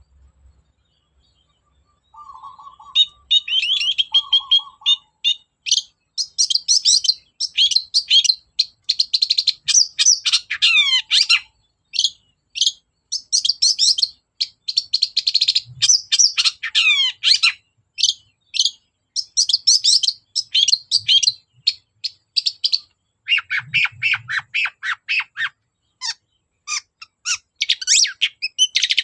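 Long-tailed shrike singing a fast, varied chattering song. It is a rapid run of sharp chirps and downward-sweeping notes, beginning after about two seconds of quiet with a few lower, hoarse notes.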